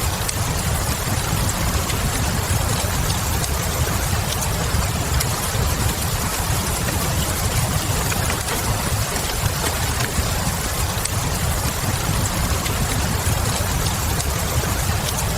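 Wood fire burning in a fireplace with a steady low rumble and faint scattered crackles, over a steady hiss of falling rain.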